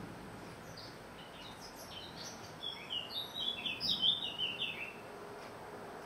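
Small songbirds chirping: a few scattered high chirps, then a fast, louder run of short downward-sliding chirps starting about halfway through and stopping about a second before the end.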